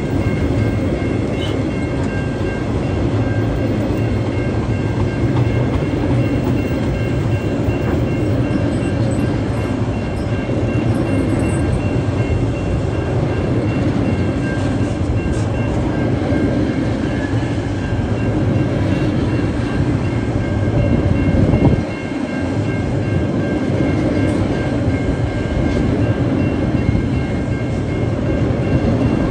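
Loaded log wagons of a freight train rolling past over a level crossing: a steady rumble and clatter of steel wheels on the rails. Over it, the crossing's alarm bells ring as a steady high tone.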